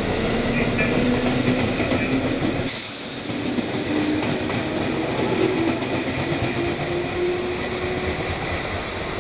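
Electric passenger train passing at speed alongside the platform, with wheels rattling on the rails and a steady motor tone. About three seconds in the passing train clears with a burst of hiss. Rail noise and a hum slowly rising in pitch carry on.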